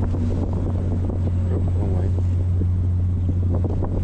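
A passenger ferry's engine running, a steady low hum, with wind on the microphone.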